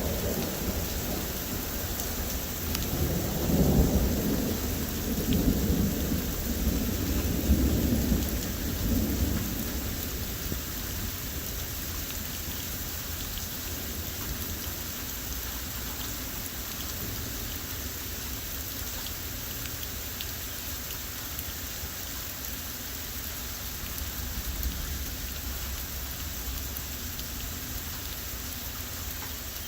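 Heavy rain pouring steadily while strong storm wind gusts rumble and buffet the microphone, the gusts loudest in several surges between about three and nine seconds in, then easing to a steady rush.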